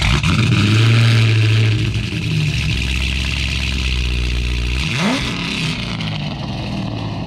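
Heavily modified Cadillac CTS-V's supercharged V8 being revved loudly in place: it jumps up sharply, holds raised revs for about two seconds, eases back, then gets a quick sharp blip of the throttle about five seconds in before settling back down.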